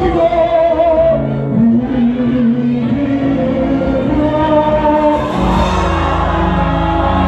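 Gospel worship music: a singer's melody over keyboard and band, with the congregation singing along; the bass comes in fuller about five seconds in.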